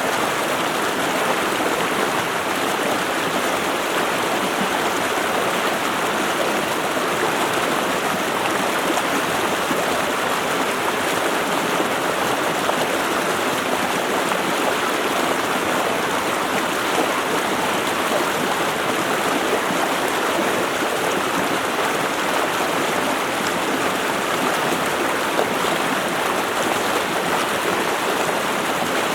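Creek water rushing steadily over rocks, a constant full hiss with no breaks.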